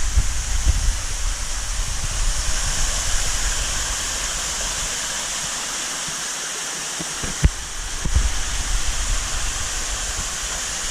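Steady rush of running water at a large aquarium tank, with a few dull low bumps and one sharp click about seven seconds in.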